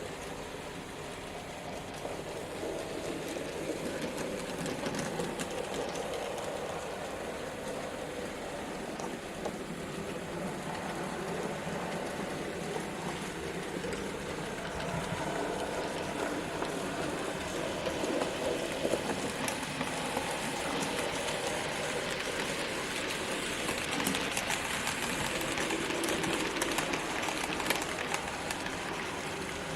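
N gauge model trains running on the layout: a steady whirr of small electric motors and gearing, with light clicking of metal wheels over the rail joints, swelling and easing as the trains pass.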